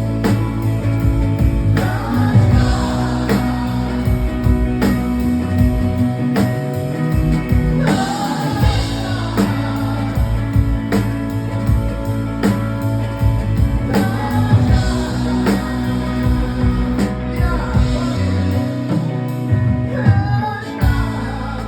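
Live rock band playing loudly, with a steady drum beat, bass and electric guitar under a sung line in long, wavering phrases. The music stops about a second before the end and rings out.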